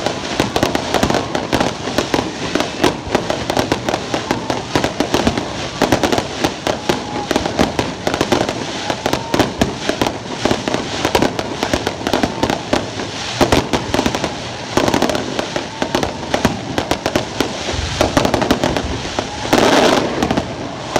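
Fireworks display: a dense, continuous barrage of bangs and crackling from bursting aerial shells and spark fountains, with a louder burst near the end.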